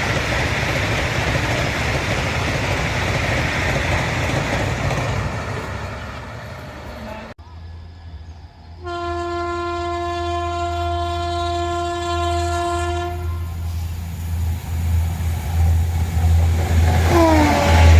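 An express train rushing past, its noise fading after a few seconds. Then an approaching Indian Railways express sounds one long, steady horn blast lasting about four seconds, and the low rumble of the train grows louder as it nears.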